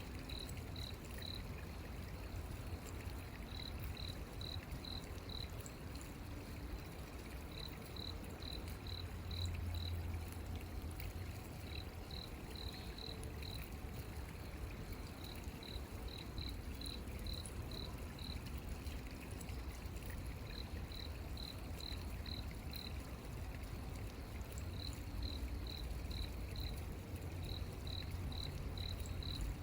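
A cricket chirping at night in short trains of about five to seven rapid pulses, a train every three to four seconds, over a steady low rumble.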